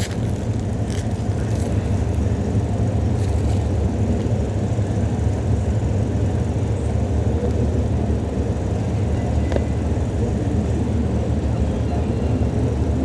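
Steady low background rumble, even throughout, with a faint click about ten seconds in.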